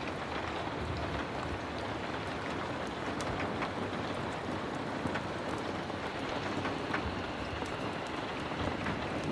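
Heavy rain falling steadily, a dense even hiss with scattered sharp ticks of drops.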